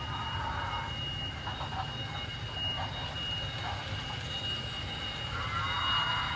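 Two MTH Berkshire model steam locomotives running together and slowing down: wheels rolling on the track with the steam sound effects from their onboard sound systems.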